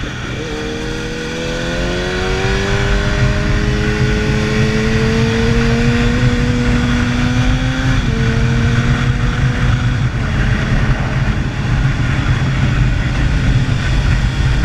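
Motorcycle engine pulling under load, its pitch rising slowly for several seconds. About eight seconds in it drops with an upshift, then runs on steadily, over constant low wind and road rush.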